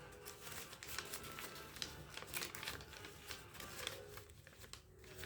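Paper rustling and crinkling in a quick string of short rustles and taps as a folded paper airplane is handled.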